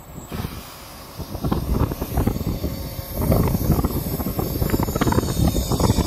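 Wind buffeting the microphone in gusts, a low rumbling noise that eases off at the start and builds back up about a second and a half in.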